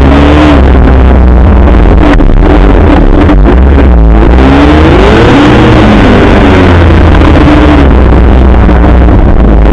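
Arctic Cat F8 snowmobile's two-stroke engine, very loud, revving up and falling back several times over a heavy low rumble.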